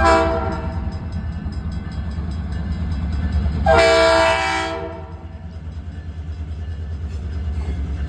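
Iowa Interstate diesel freight locomotive sounding its air horn: the tail of one blast fades in the first second, and a second blast of about a second sounds midway through. Under both is the steady low rumble of the approaching train.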